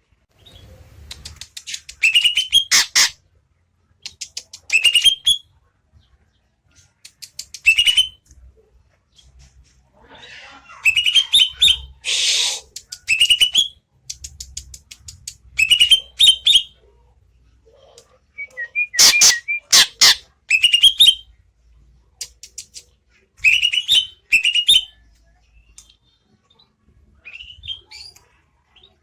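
Greater green leafbird (cucak ijo) singing in short bursts every two to three seconds: rapid ticking notes running into quick rising whistles, with a harsh noisy note about twelve seconds in.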